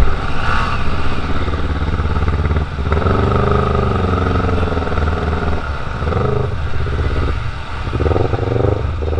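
Yamaha MX King 150's single-cylinder four-stroke engine pulling up a steep lane in slow traffic, its revs rising and falling in several surges, with wind rushing over the microphone.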